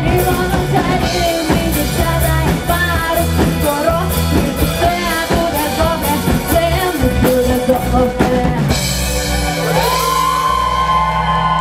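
Live rock band with drum kit playing an instrumental passage; about nine seconds in the drums stop and the band holds a final ringing chord.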